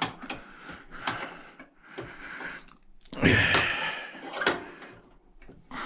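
Scrap parts being handled on a workbench: scattered sharp clicks and knocks, with a louder rasping scrape about three seconds in.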